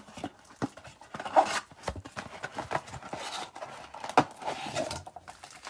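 Trading-card blaster box and its packs being opened by hand: irregular scraping, rustling and tearing of cardboard and plastic wrapping, with small clicks and knocks.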